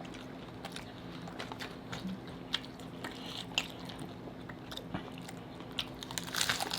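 Hard-shell tacos being bitten and chewed: scattered crisp crunches and mouth sounds, with a louder burst of crunching near the end.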